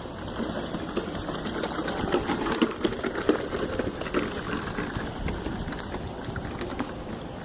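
Rapid mechanical clattering, like a small machine running, loudest from about two to four and a half seconds in.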